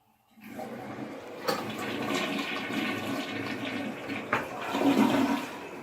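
Water rushing steadily, starting about half a second in, with a couple of brief clicks.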